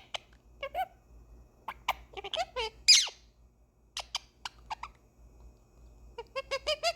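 Pet parrot calling in short squeaks, clicks and chirps, with one loud squawk about three seconds in and a quick run of chirps near the end.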